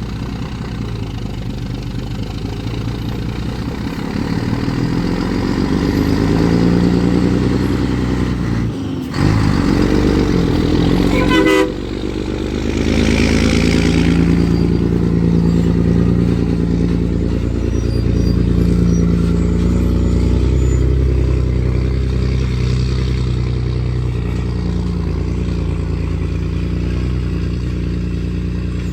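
Scania 113 truck's six-cylinder diesel engine pulling a loaded bitrem away, a deep steady engine note that grows louder over the first few seconds. It breaks off briefly twice in the first half, then runs on steadily.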